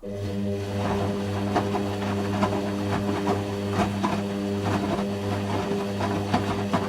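Hoover Quattro System Power Jet Easylogic AE130 washing machine drain pump cutting in suddenly and humming at a steady pitch, with irregular ticks and splashes of water over it.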